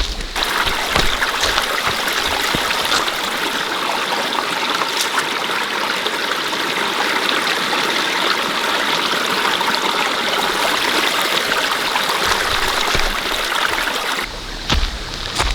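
Steady rush of water noise that starts abruptly just after the beginning and stops abruptly about a second before the end.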